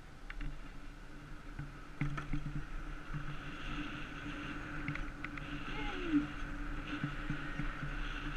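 48-volt electric bike motor running with a steady whine over wind rumble, muffled by a waterproof action-camera housing, with a few light clicks and knocks from the ride.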